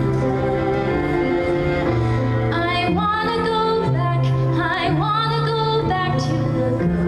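Vocal song with held low notes in the accompaniment. A singer's voice comes in about two and a half seconds in, singing long wavering notes over it.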